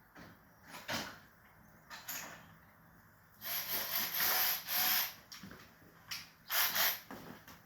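Hand sanding: sandpaper on a sanding block rasping over a car bumper's painted plastic in separate strokes, with a longer run of strokes in the middle. The bumper is being knocked down before paint.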